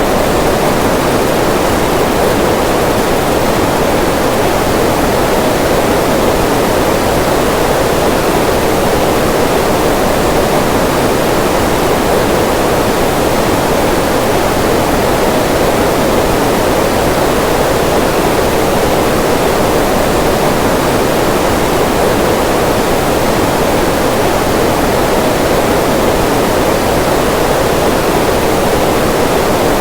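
Waterfall: a steady, unbroken rush of falling water, even white-noise-like, with no changes.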